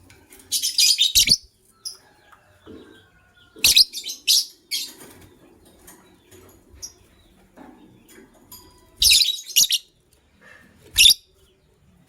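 Lovebirds chirping in four short bursts of rapid, harsh, high-pitched calls, with quiet gaps between them.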